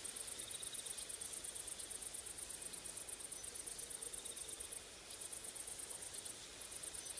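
Grasshoppers and crickets chirping on a hot summer day: a high, rapid, evenly pulsed trill that breaks off briefly twice, about five and about six and a half seconds in.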